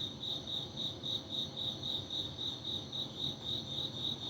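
A cricket chirping steadily, a high-pitched chirp repeating about five times a second.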